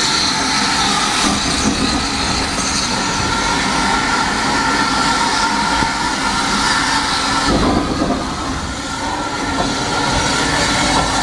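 Heritage railway passenger train on the move, heard from a carriage: a steady running noise of wheels on the rails with some clickety-clack.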